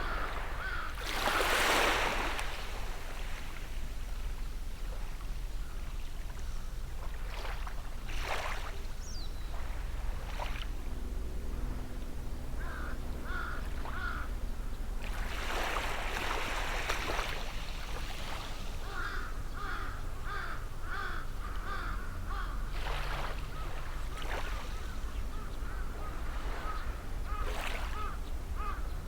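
Small sea waves washing onto the shore every several seconds, the loudest about a second in, while a bird calls in runs of quick repeated notes. A steady low hum lies underneath.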